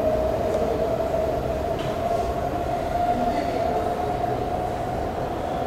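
BART train moving through the station: a steady whining tone over a continuous rumble.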